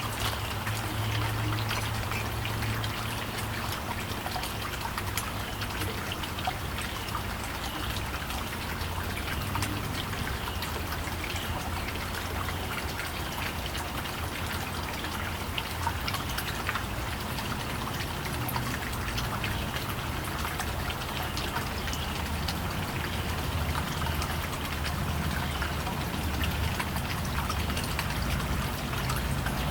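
Steady rushing background noise with a low hum underneath and scattered faint clicks.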